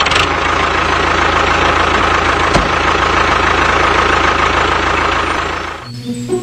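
A motor or engine running steadily with a faint steady whine, dying away about six seconds in.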